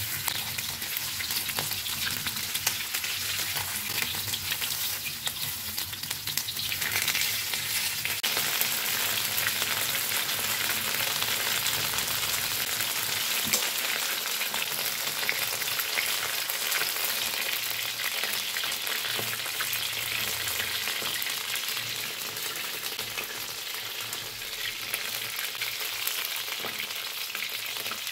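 Flour-and-cornstarch-coated chicken thighs frying in hot oil in a wok: a steady, crackling sizzle.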